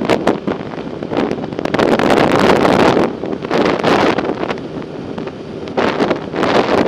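Wind buffeting the microphone of a camera carried on a moving bicycle: a loud rushing that swells and eases in gusts, with scattered short clicks and rattles.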